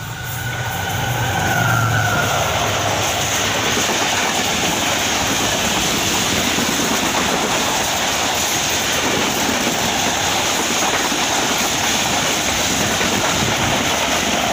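Express passenger train passing through the station at speed: the locomotive's engine grows louder over the first two seconds, then the coaches rush past in a steady, loud run of wheels on rails.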